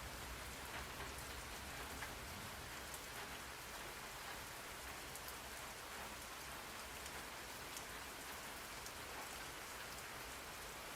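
Steady rain falling: an even hiss with many small scattered drop taps, used as a white-noise background.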